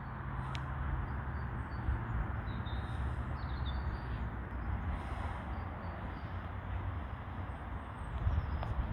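Steady outdoor background noise with a low rumble, and faint high bird chirps here and there.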